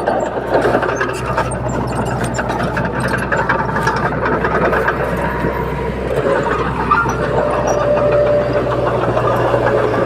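Small crawler bulldozer's diesel engine running steadily under work, with the clank and rattle of its steel tracks.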